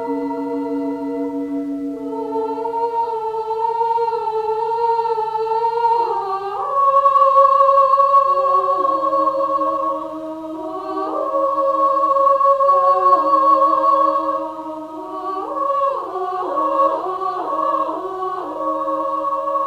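Electronic keyboard instrument playing a slow two-part melody in a sustained, voice-like tone over a steady held low note, with a quick trill of alternating notes a few seconds before the end.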